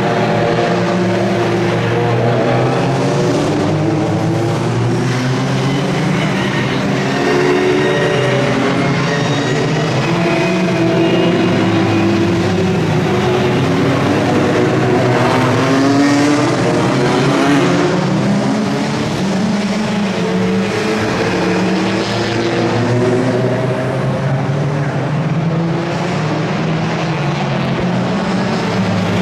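A pack of circuit racing cars running past on track: several engines at once, their pitch rising and falling as they accelerate, shift and brake, with no break over the whole stretch.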